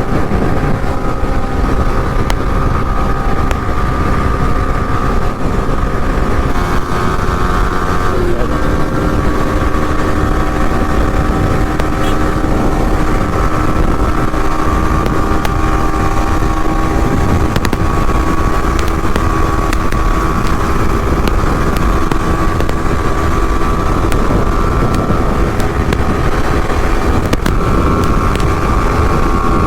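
Motorcycle engine running steadily at highway cruising speed, heard from the rider's position with wind rushing over the microphone; the engine note drops a little about eight seconds in.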